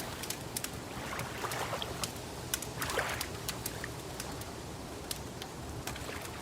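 Wood fire crackling with many sharp, irregular pops, over a low steady rumble and soft swells of lapping water.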